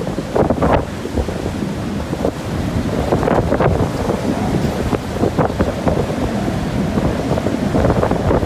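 Storm wind blowing hard across the microphone over the wash of heavy seas, coming and going in gusts.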